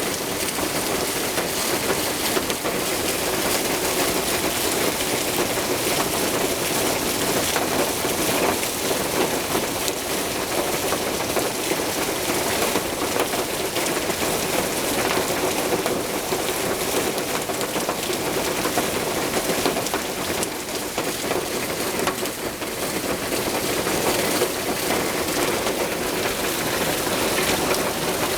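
Heavy rain pouring down steadily, a dense, even hiss that keeps up without a break.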